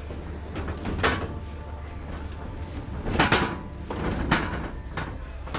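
A handful of sharp knocks and clatter of objects being handled and moved, with the loudest strikes about three seconds in, over a steady low hum.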